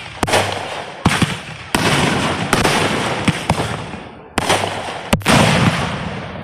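Aerial fireworks shells bursting in quick succession, about one sharp bang a second, each bang trailing off over most of a second before the next.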